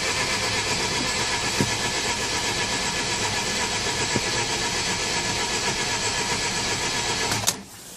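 Mazda RX-8's twin-rotor Renesis rotary engine being cranked over steadily on the starter with the fuel pump fuse pulled, to clear a flooded engine; the cranking stops suddenly near the end.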